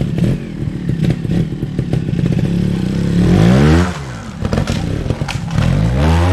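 Trials motorcycle engine running close by and blipped in short bursts: its pitch rises and falls sharply about three seconds in, and again near the end.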